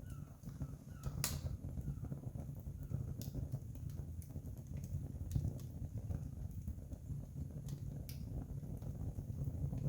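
Wood campfire burning: sharp crackles and pops every second or so over a low, steady rumble.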